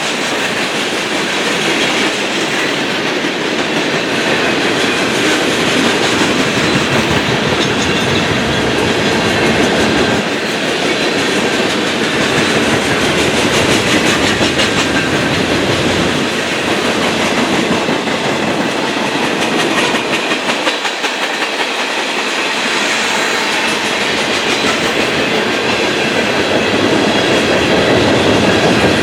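Train rolling past close by, its wheels clacking steadily over the rail joints.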